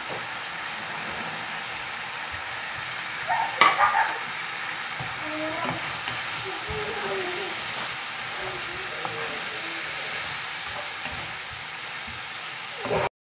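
Eggplant, bell pepper and tomato sizzling in oil and sauce in a nonstick pan while being stirred with a wooden spatula: a steady frying hiss with a brief louder clatter about three and a half seconds in. It cuts off abruptly near the end.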